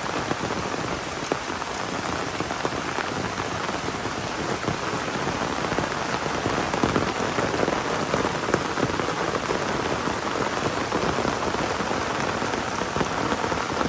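Heavy rain falling steadily, a dense, even patter of drops on surfaces, with a few louder drop hits standing out.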